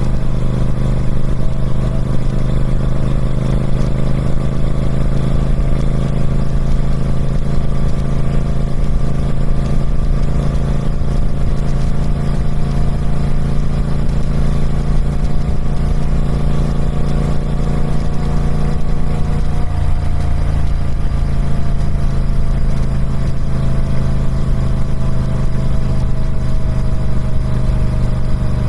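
Triumph Speed Twin 1200's 1200cc parallel-twin engine running steadily through its stock exhaust, its pitch drifting slowly up and then easing down about two-thirds of the way through.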